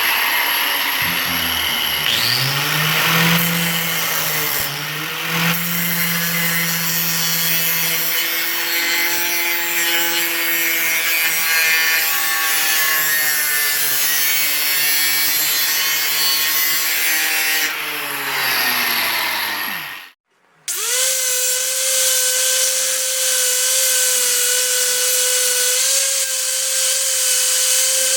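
High-speed rotary power tool running and cutting metal, with its pitch sagging under load. About twenty seconds in it winds down and stops, then after a brief gap a tool runs again at a steady, higher pitch.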